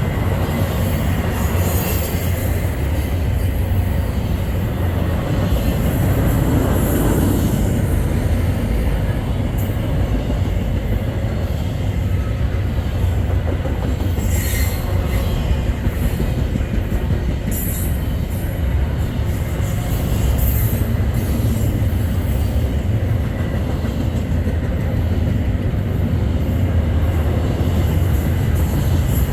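Freight train cars rolling past, a steady heavy rumble of wheels on rail with brief high wheel squeals now and then.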